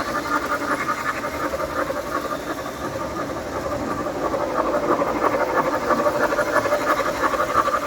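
O gauge three-rail model train running on a layout: a steady motor hum with a fast, even clatter or chuffing over it.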